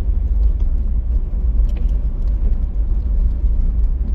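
Steady low rumble of a car on the road: engine and tyre noise from a moving car, with a few faint ticks over it.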